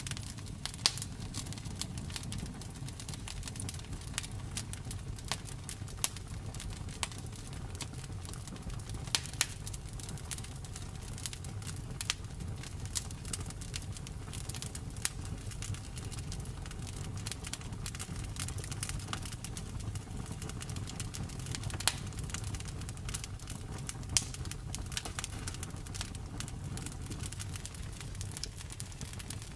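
Wood fire crackling and popping, with frequent sharp snaps over a steady low roar of the flames; a few louder pops stand out.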